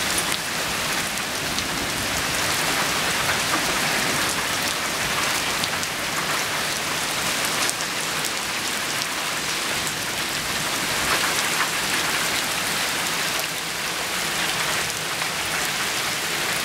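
Steady rain falling on pavement and grass, an even continuous hiss.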